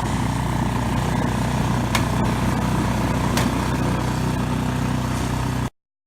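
An engine running steadily at an even speed, with two sharp clicks partway through. It cuts off abruptly near the end.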